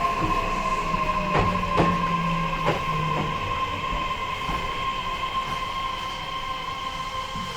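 E131-1000 series EMU running, heard from inside the motor car: a steady electric whine with a lower motor tone that falls slowly in pitch as the train slows, and several wheel clicks over rail joints in the first few seconds.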